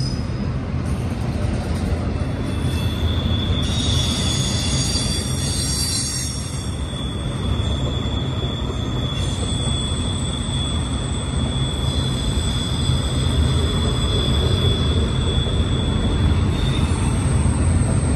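Freight train of double-stack well cars rolling past: a steady low rumble of wheels on rail, with a thin, high wheel squeal that sets in a few seconds in and holds until near the end.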